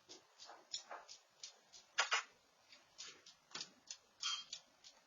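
Faint, irregular light clicks and taps of a small dog's claws on a hard floor as he moves about, a little louder about two seconds in and again past four seconds.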